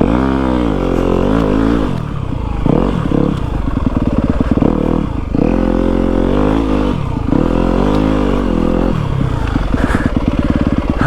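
Yamaha WR250F dirt bike's single-cylinder four-stroke engine under way, its revs rising and falling in about five surges with short drops between, then settling lower near the end.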